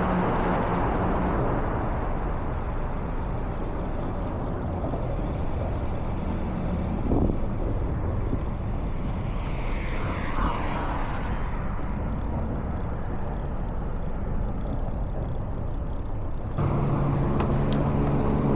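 Road traffic noise: a steady rush of passing cars, with a brief whine near the middle. Near the end, a steady low engine hum joins in.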